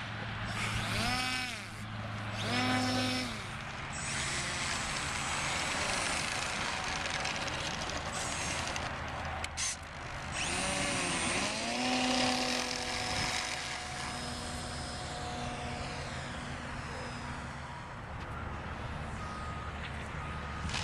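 Small electric RC plane motor whining, its pitch rising in two short throttle bursts and then, after another run-up, held at a steady high whine for several seconds.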